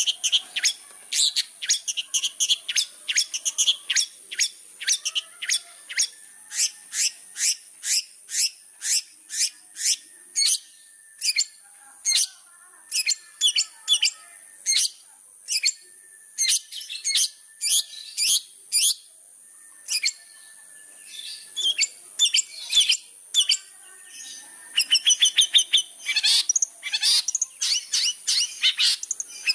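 Long-tailed shrike singing in full voice: a long run of sharp, high, repeated notes, about two or three a second, breaking into faster chattering near the end.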